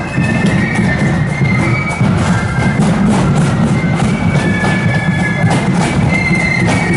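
Marching pipe band playing a tune outdoors: bagpipes droning and playing the melody, with drums beating.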